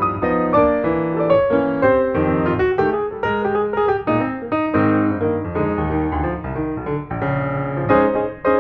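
Background piano music: a melody of separate notes over chords, at an unhurried pace.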